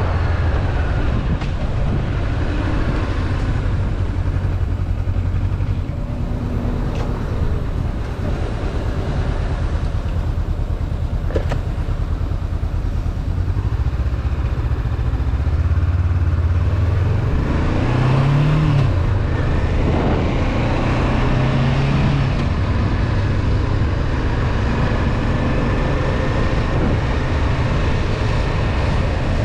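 Honda CB500F parallel-twin engine running on the move, with a rush of wind noise over it. About halfway through, the engine note rises and falls as the bike accelerates and changes gear, then settles back to a steady cruise.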